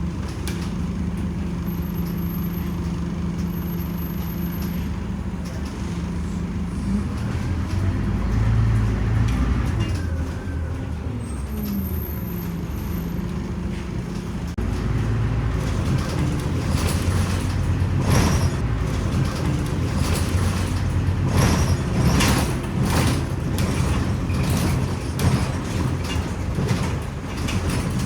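Scania OmniCity city bus heard from on board: the engine runs steadily at first, its note shifts about a third of the way in, and from about halfway it gets louder, with frequent body rattles and knocks as the bus drives along.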